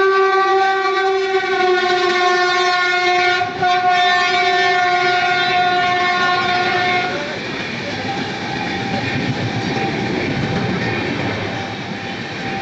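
An Indian Railways electric locomotive sounds a long, steady horn blast, with a brief break about three and a half seconds in, as it runs through the station. The horn stops about seven seconds in, and the express coaches rush past with a rumbling clatter of wheels on the rails.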